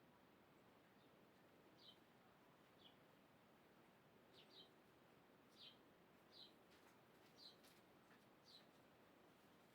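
A bird calling with short, high, slightly falling chirps, about one a second, over a faint steady background hiss.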